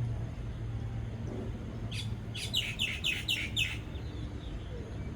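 A bird giving a quick run of about six short, falling chirps about halfway through, over a steady low hum.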